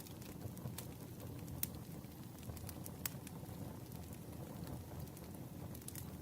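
Campfire crackling: a steady low rush from the fire with sharp, irregular wood pops, the loudest about three seconds in.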